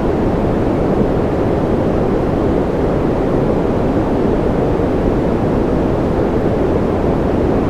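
Steady rain white noise: an unbroken, deep rushing hiss, heavy in the low range, with no drops or events standing out.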